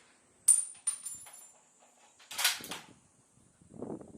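Several sharp clicks and knocks, with a short muffled thud-like burst near the end.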